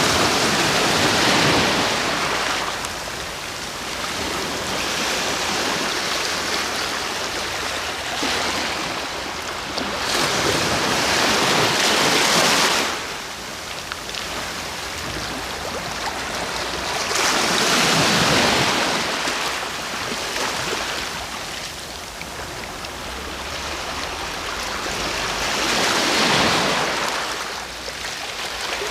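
Sea waves breaking on a shore: four waves swell into a rushing hiss, one every eight seconds or so, with quieter wash between them.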